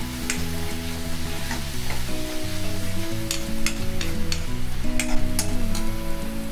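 Chopped onions, ginger and curry leaves sizzling in hot oil in a pan while a metal spoon stirs them, clicking and scraping against the pan again and again; the onions are being sautéed on high flame. Soft background music with held, slowly changing notes plays underneath.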